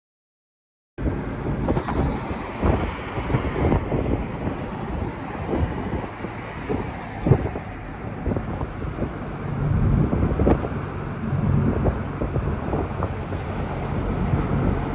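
Truck on the move: steady engine hum and road noise, with wind on the microphone and scattered knocks and rattles. The sound cuts in abruptly about a second in, after dead silence.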